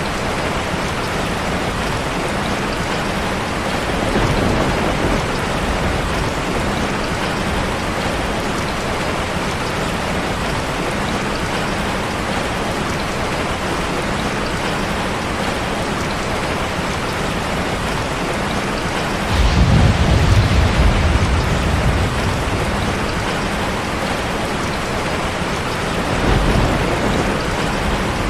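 Steady rain with low rumbles of thunder: a faint one about four seconds in, the loudest about two-thirds of the way through, and a shorter one near the end.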